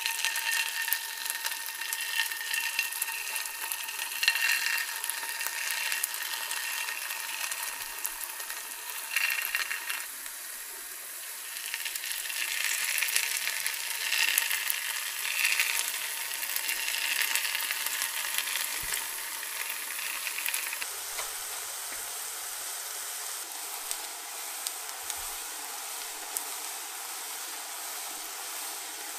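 Mashed-potato dough frying in shallow hot oil in a pan, sizzling and crackling as the spirals are piped in. About two-thirds of the way through, the sizzle settles to a steadier, slightly quieter hiss.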